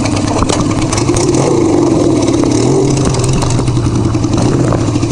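Motorcycle engine running under way, its pitch edging up slightly partway through and then holding steady.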